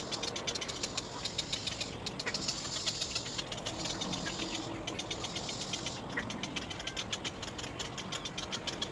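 Little egret chicks giving a fast, even rattle of ticking begging calls, about eight to ten ticks a second, in runs with short breaks.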